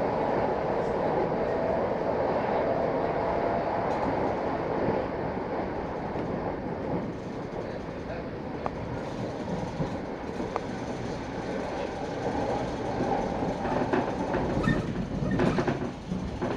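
Passenger train running along the rails, heard from inside the carriage: a steady rumble and wheel-on-rail noise, with a few sharp clicks and knocks near the end.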